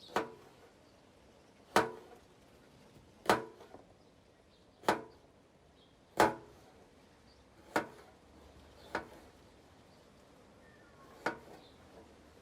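A heavy cleaver-style blade chopping down in single strikes, eight sharp chops about one and a half seconds apart, one of them lighter.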